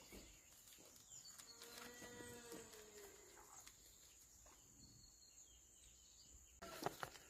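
A farm animal calling faintly from a distance: one drawn-out call with a slightly falling pitch, over a steady high hiss. A few sharp knocks come near the end.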